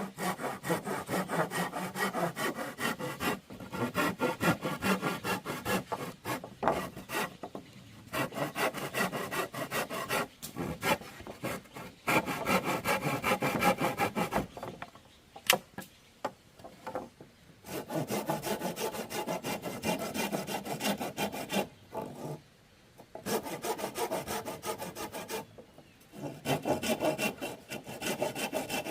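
Hand saw cutting through bamboo in bouts of quick strokes a few seconds long, with short pauses between.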